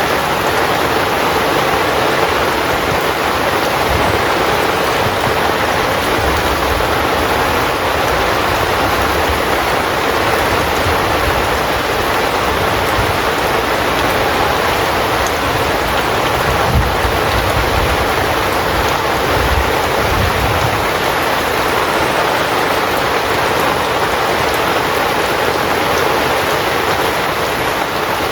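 Heavy rain drumming steadily on a tent: a loud, even hiss of dense drops, with soft low rumbles in the middle stretch.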